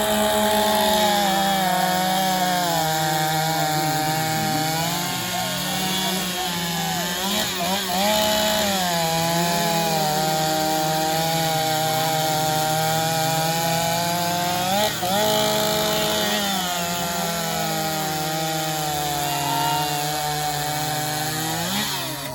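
Two-stroke chainsaw held at high revs while cutting through wood. Its pitch sags and picks up again briefly about a third of the way in, about two-thirds in, and near the end.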